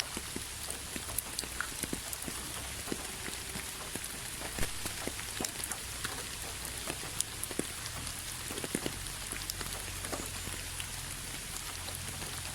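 Rain falling steadily, with many separate drops landing close by as short, sharp ticks over the even hiss.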